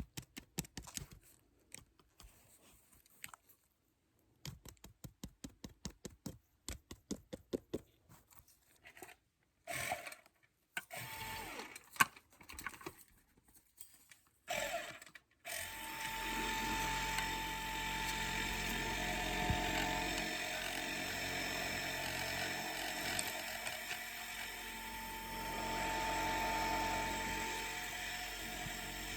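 Quick rows of small clicks and taps, then about halfway through a steady dentist's drill whine starts and keeps going.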